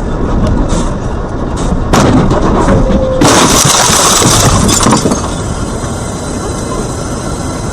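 Car collision picked up by a dashcam over loud road noise: a sudden crash about two seconds in, then a longer, louder crunch with breaking glass from about three to five seconds in.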